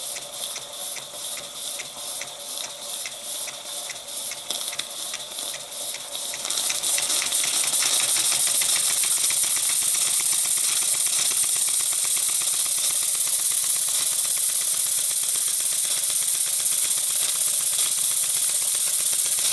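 Stuart S50 mill steam engine running on steam, its exhaust beating in a rapid, even rhythm over a hiss. About six or seven seconds in, a louder steady steam hiss swells up and covers the beat.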